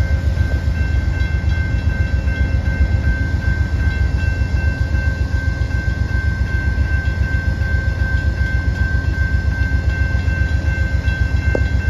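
Amtrak GE P42 diesel locomotive standing with its diesel engine running: a steady, pulsing low rumble with a steady high-pitched whine over it.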